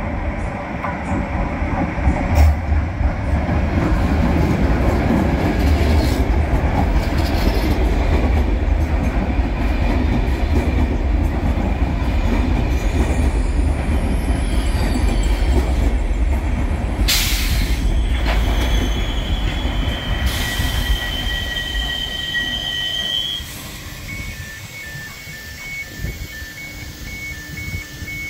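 InterCity passenger train hauled by a Siemens Vectron EU46 electric locomotive rolling into the platform, its wheels on the rails giving a loud low rumble as it slows. Near the end of the rumble the brakes give a steady high squeal, and the train comes to a stop. In the last few seconds a pulsing electronic beep sounds.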